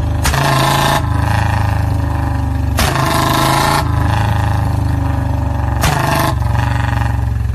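Royal Enfield Bullet's single-cylinder engine running and being revved, its exhaust letting out three sharp pops or backfires, like firecrackers.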